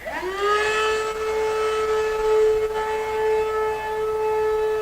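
Sea Eagle electric air pump switched on, its motor spinning up in a quick rising whine and then running at a steady pitch as it inflates the kayak.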